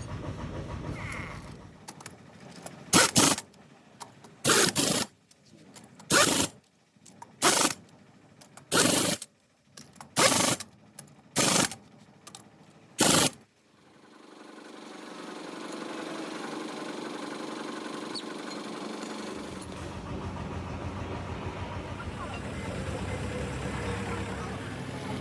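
Pneumatic impact wrench driven in about eight short bursts, roughly one every second and a half, as truck wheel bolts are run in. The bursts are followed by a steady, slowly building machine noise.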